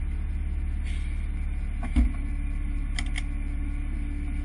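Nissan 200SX S13's SR20DET turbocharged four-cylinder idling steadily, heard from inside the cabin. A single thump about two seconds in, then two light clicks about a second later.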